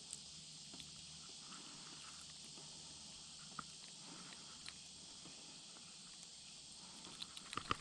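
Faint, steady high-pitched hiss of outdoor ambience with a few scattered small clicks, then a quick run of clicks and knocks near the end.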